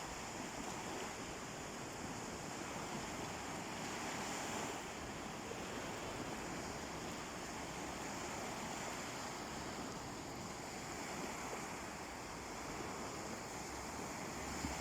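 Calm sea waves washing onto the shore: a steady wash of surf that swells slightly about four seconds in.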